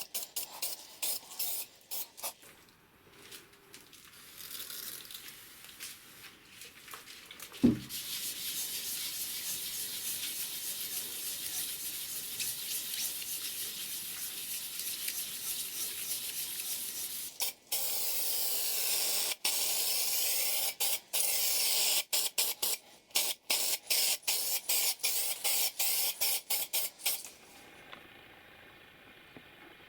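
Paint spraying in hissing passes: short bursts at first, then long continuous sprays, then a run of quick short bursts. A single sharp thump comes about eight seconds in.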